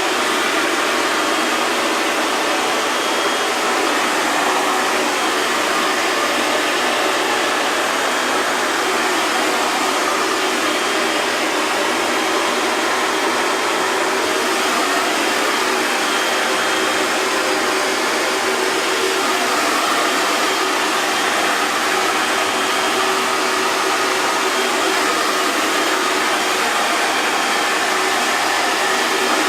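Hair dryer running steadily, a constant rushing airflow with a faint steady motor whine and no change in speed.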